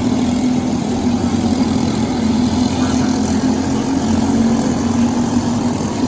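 Briggs & Stratton LO206 kart engine running hard on the track, holding a fairly steady pitch with slight rises and falls.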